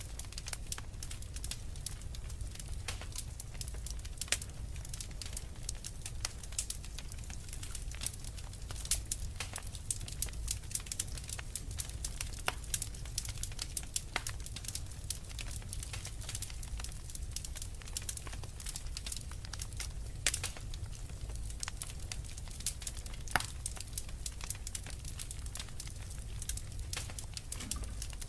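Wood fire crackling in a fireplace: frequent irregular sharp snaps and pops over a steady low rumble.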